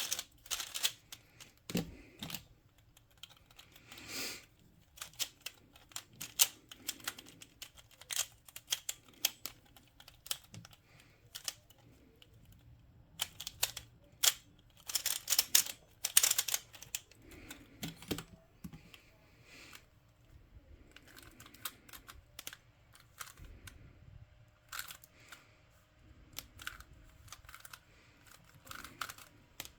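Plastic twisty puzzle cube being turned by hand: quick, irregular clicking and clacking of the turning layers, in flurries with short pauses between them.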